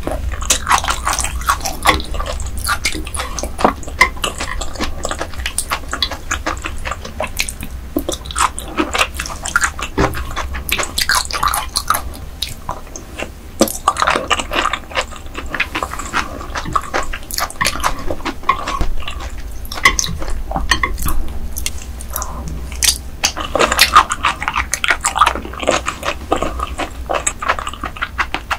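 Close-miked chewing and wet mouth sounds of a person eating ice goby in a spicy red sauce: a dense, irregular run of small wet clicks throughout.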